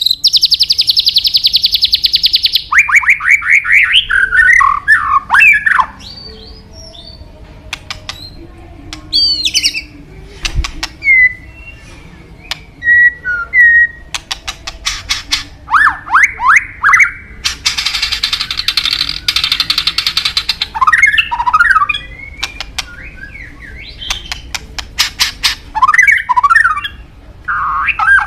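White-rumped shama (murai batu) singing a varied song: fast buzzy rattles, runs of rapid slurred notes and short clear whistles, in phrases with brief pauses between them. Two long buzzy rattles stand out, one at the start and one about two-thirds of the way through.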